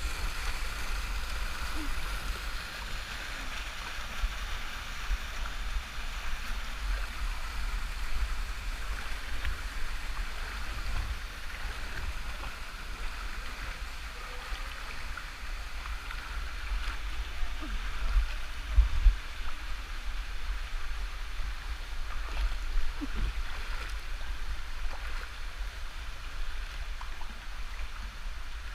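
Small waterfall's water rushing steadily, over a low rumble on the microphone with a couple of heavier bumps about two-thirds of the way through.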